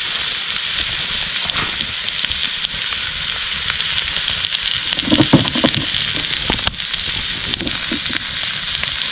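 Negima yakitori skewers of chicken and green onion sizzling in olive oil on a steel griddle plate over a wood fire: a steady frying hiss with a few sharp crackles, and a brief lower sound about five seconds in.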